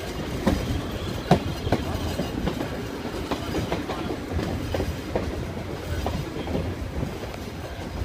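Skunk Train passenger coach rolling along the track: a steady rumble with wheels clicking and clanking over the rail joints, the loudest clanks in the first couple of seconds.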